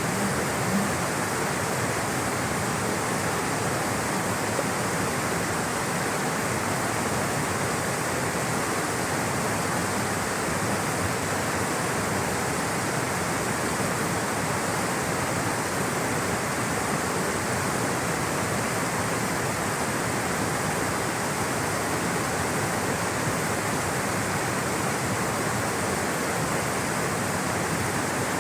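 Rushing water flowing in a steady, unbroken rush.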